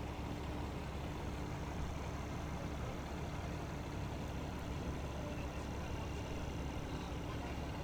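Seagrave Attacker fire engine's diesel engine idling steadily.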